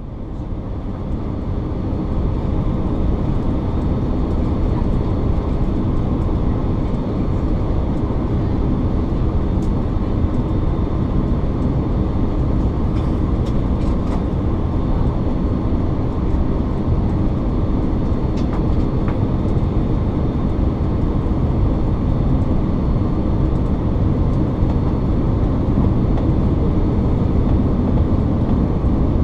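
Steady low rumble of a Boeing 787-9 Dreamliner's cabin noise during landing: engine and airflow noise heard from a seat in the cabin, swelling over the first couple of seconds and then holding even.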